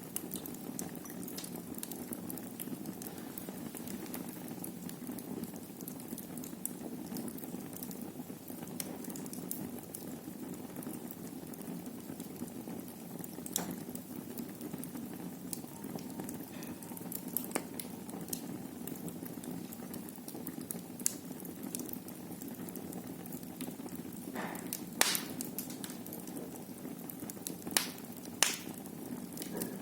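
Wood fire burning in a fireplace: a steady low rush of flames with scattered crackles and pops, the sharpest pops near the end.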